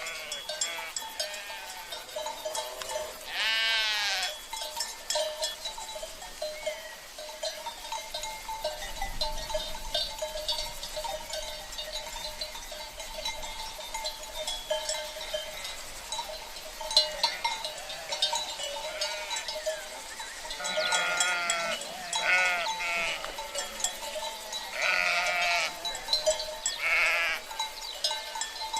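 Sheep bleating among the constant clinking and ringing of livestock bells (cencerros) on a grazing flock. One bleat comes a few seconds in, and several more come close together near the end.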